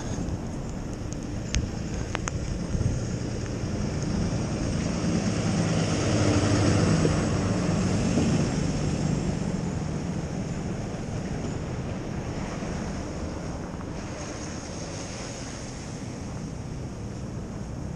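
Street traffic noise from a passing motor vehicle, its rumble swelling to its loudest about seven seconds in and then slowly fading, with wind buffeting the microphone. A few sharp clicks in the first three seconds.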